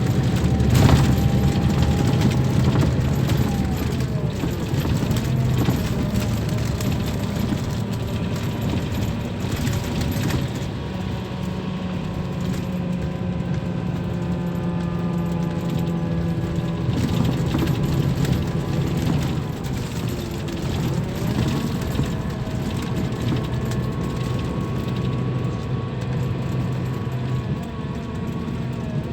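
Scania K340 coach's diesel engine running, its pitch dipping and rising again a couple of times as the engine speed changes, with light rattling and clinking of loose parts.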